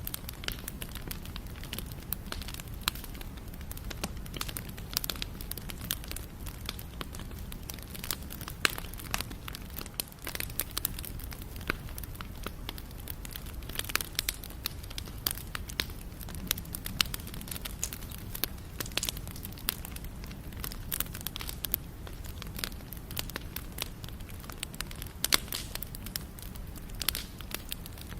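Wood bonfire burning, crackling steadily with frequent irregular sharp pops and snaps over a low, even rumble.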